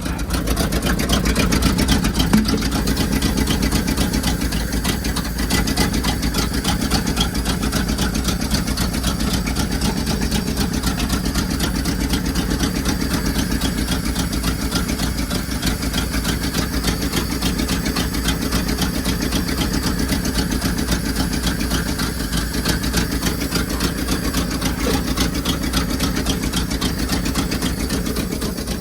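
Engine running steadily at idle with a rapid, even firing rhythm after a hard cold start, with its choke stuck on.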